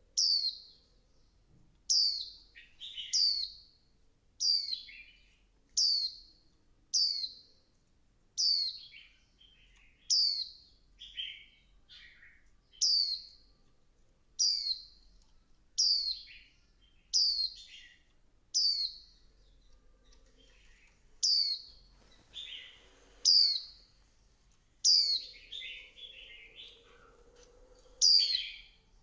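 Female white-eye giving a high, falling chirp over and over, about every second and a half, with softer lower notes in between and a brief pause near the middle. It is the female call that excites males into song.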